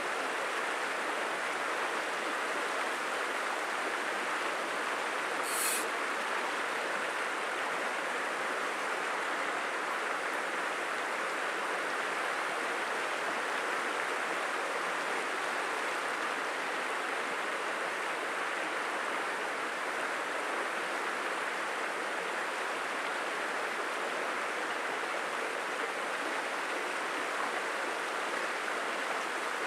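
Stream water rushing steadily. One brief high-pitched swish cuts through about six seconds in.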